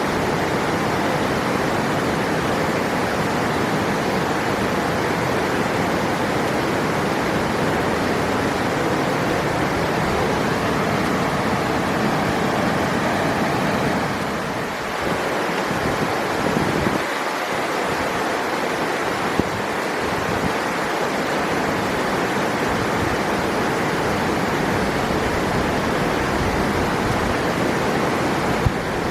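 River water rushing steadily, a dense even roar like rapids or a small waterfall, dipping briefly about halfway through.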